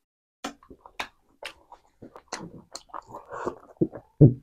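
Close-miked mukbang eating: sharp lip smacks and wet chewing on spiced chicken on the bone. Near the end come two loud low gulps as a drink is swallowed from a glass.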